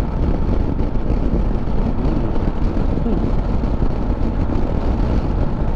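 Motorcycle under way at road speed: wind rushing over the microphone with the engine running beneath it, a steady noise with no break.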